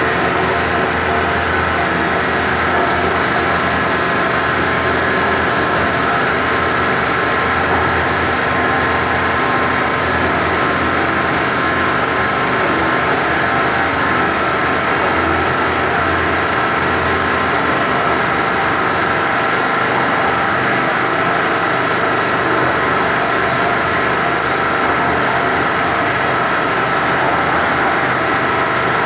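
Small portable petrol generator engine running steadily under load, powering a 550 W electric concrete mixer turning a drum of sand.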